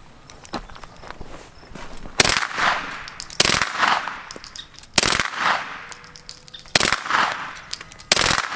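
Five single gunshots from a suppressed TP 9mm, spaced about one to one and a half seconds apart, each followed by a short echo. The silencer damps the report; by the shooter's reckoning it cuts the noise down by at least 75%.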